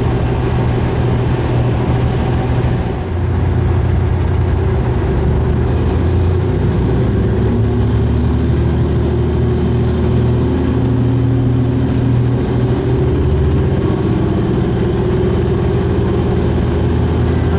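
Diesel railcar engine running steadily, a low drone with a slight change in pitch about three seconds in and again a few seconds later.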